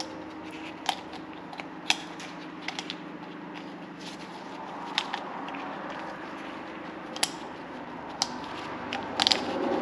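Scattered short clicks and taps, about seven in all, from small parts and hand tools being handled while the old O-ring is picked off a plastic cartridge oil filter housing, over a steady low hum.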